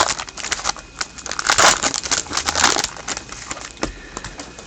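Hockey card pack wrappers and cards being handled, crinkling and rustling with irregular small clicks, dying down near the end.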